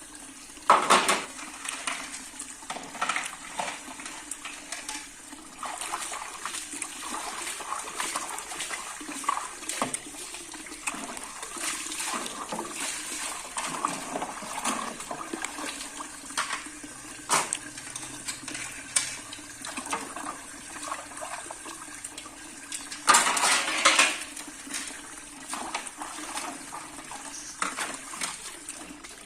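Dishes and containers clinking and knocking as they are washed, with a tap's water running in louder spells about a second in and again near the end.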